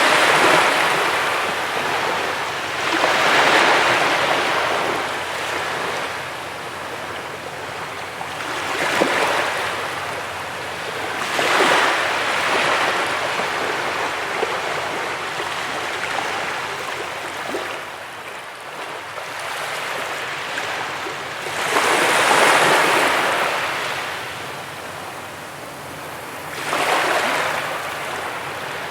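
Ocean waves breaking and washing on a beach, each wave swelling and fading over a few seconds, about six surges in the span.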